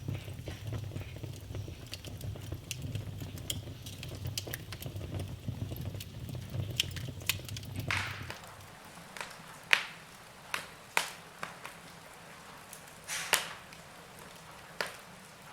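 Wood fire crackling in a fireplace: a steady low rumble with dense small crackles stops about eight seconds in, leaving a quieter bed with a handful of sharp, louder pops of burning logs.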